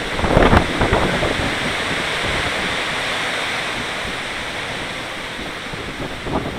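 Strong wind gust rushing and buffeting the microphone, with a low rumble about half a second in, then a steady rush that slowly eases off.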